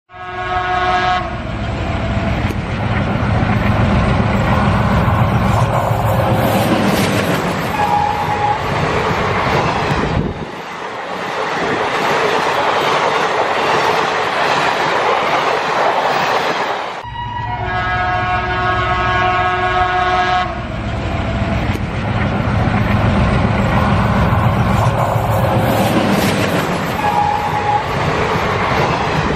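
Looped train sound: a multi-tone train horn sounds for about a second, then a train runs with a heavy rumble and a short beep. Then comes a stretch of steady rain hiss. The horn and running train start over about seventeen seconds in.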